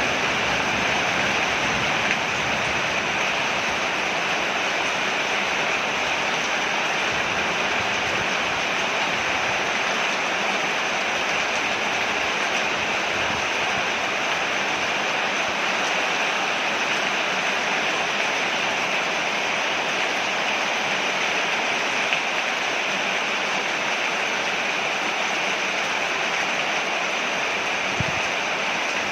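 Steady heavy rain falling on a porch: a dense, even hiss with a few slightly louder taps.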